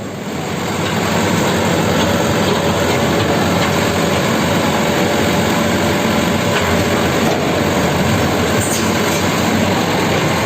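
Heavy diesel machinery running at work: a loud, steady mechanical rumble with rattle and clatter.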